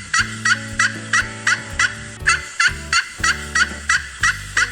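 Turkey gobbling: a long run of short, quick calls, about three a second, with a brief break twice, over background music.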